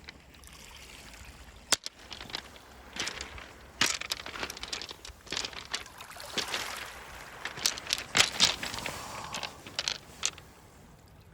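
Beach pebbles clacking and crunching in irregular sharp clicks, a few much louder than the rest, over a noisy wash that sounds like water running through the stones.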